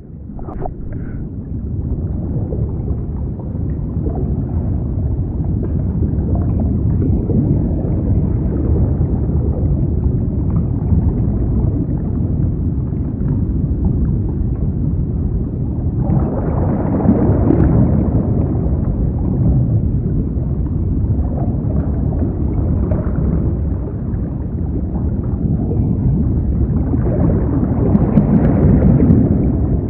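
Muffled underwater rumble and gurgling of pond water moving around a camera held below the surface, swelling louder twice, around the middle and near the end.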